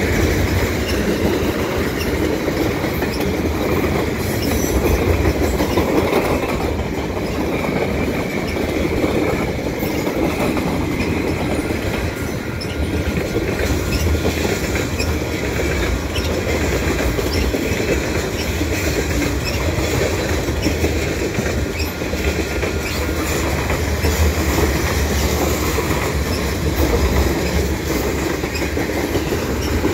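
A CN mixed freight train's cars, mostly tank cars, rolling past close by: a steady rumble of steel wheels on the rails, with the clickety-clack of the wheels over the rail joints.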